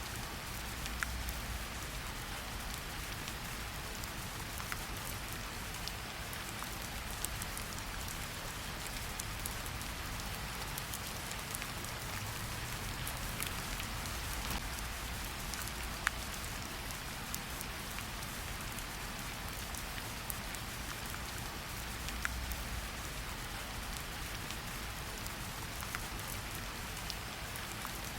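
Steady rain falling, an even hiss with scattered sharp drips and drop impacts standing out every few seconds.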